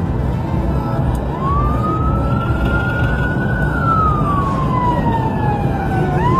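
Police siren wailing: one slow rise, a long fall, and a rise again near the end, over heavy road and engine rumble.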